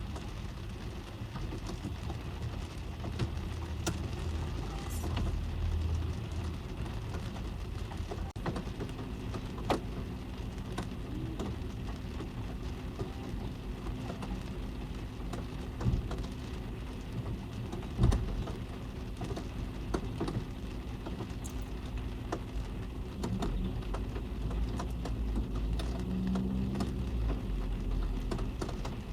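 Rain falling on a car's roof and windows, heard from inside the cabin: a steady hiss of countless small drop taps, with two sharper, louder drips about 16 and 18 seconds in. A low rumble comes and goes underneath, about 4 seconds in and again near the end.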